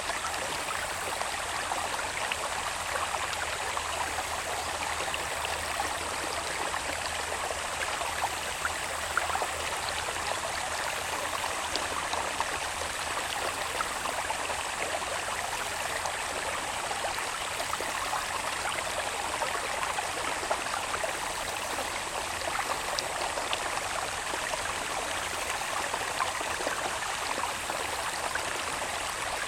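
Babbling water of a small irrigation channel flowing steadily, with a thin, steady high-pitched insect drone over it.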